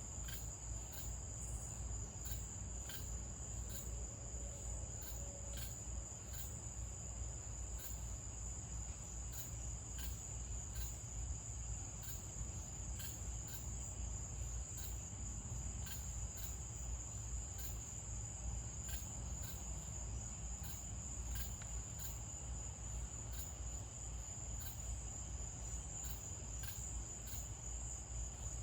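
Night insects chirping in a steady, high-pitched chorus, with a low rumble underneath.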